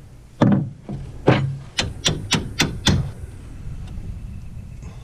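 Hammer blows on steel suspension parts of a side-by-side's wheel hub, each strike ringing. There are two single blows, then five quicker ones at about four a second.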